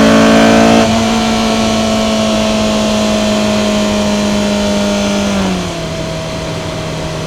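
Honda S2000's four-cylinder engine running at high revs, easing off about a second in. Its note holds steady while slowly falling in pitch, then drops lower and quieter near the end.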